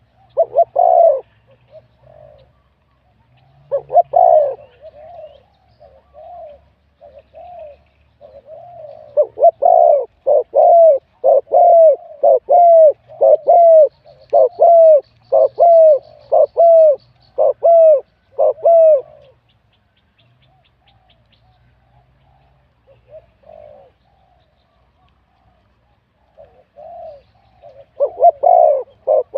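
Spotted dove cooing in repeated phrases in a medium-to-deep voice. A few coos come at the start and about four seconds in, then a steady run of about ten, roughly one a second. After a pause of several seconds the cooing starts again near the end.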